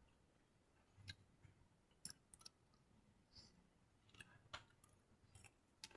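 Faint, irregular clicks and smacks of a person eating, about eight short sounds spread through a few quiet seconds.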